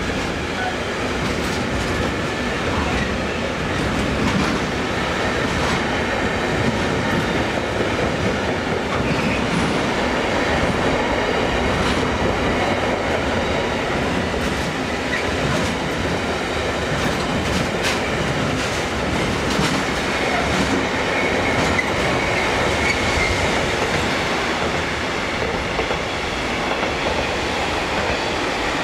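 Electric train running past on the rails, a steady, loud rolling noise with the wheels clicking over rail joints for the whole time it goes by. About twenty seconds in, a faint wheel squeal rises over it.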